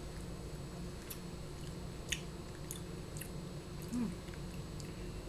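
A person chewing a sticky, chewy granola bar with a yogurt coating, with scattered small wet mouth clicks and a short hum about four seconds in.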